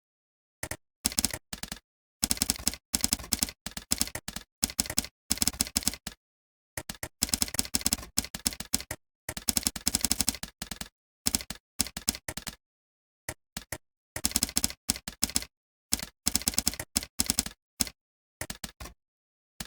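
Typing on a computer keyboard: quick runs of key clicks in bursts of a second or so, with short pauses between them that drop to dead silence.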